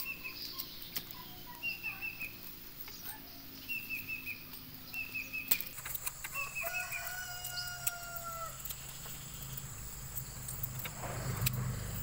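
A rooster crows once, a long call about two-thirds of the way through, while small birds repeat short, falling chirps in the first half. Scattered sharp knocks come from bamboo being cut and handled with a machete.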